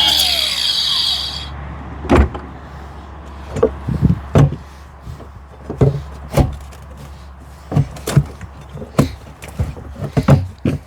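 A reciprocating saw cutting, stopping about a second and a half in, followed by a series of irregular knocks and clunks.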